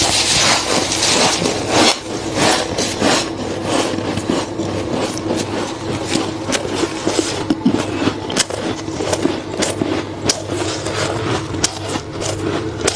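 Thick freezer frost crunching: a rough scraping crunch for the first couple of seconds, then many quick, sharp crackles and snaps at an uneven pace, over a steady low hum.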